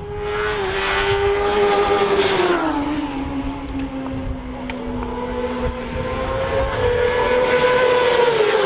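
Carburetted racing motorcycles running hard on a circuit. The engine note drops about two to three seconds in as they brake and shift down, climbs again as they accelerate, and falls once more near the end.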